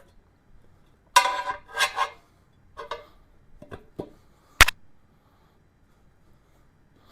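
Tire-changing tools being handled on a motorcycle wheel: two short rasping bursts about a second in, a few fainter knocks, then one sharp metallic click.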